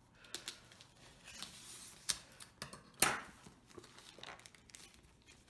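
A mail package being opened by hand: wrapping and tape tearing and crinkling, with scattered sharp snaps, the loudest about three seconds in.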